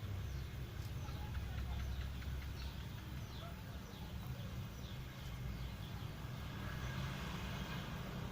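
Birds chirping: many short, high, falling chirps, several a second, over a steady low rumble.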